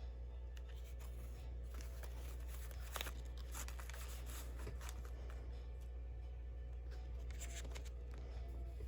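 Packaging being handled: intermittent rustling, crinkling and light clicks, with a sharper click about three seconds in, over a steady low hum.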